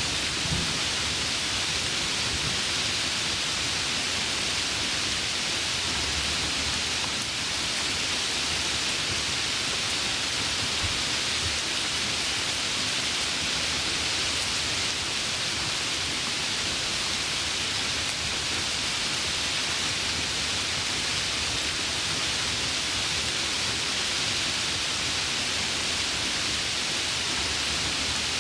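Heavy rain pouring steadily, a dense even hiss of rainfall with no distinct drops or breaks.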